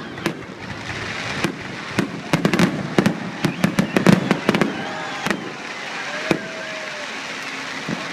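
Aerial fireworks going off, a rapid run of sharp bangs and pops that is thickest in the middle of the stretch.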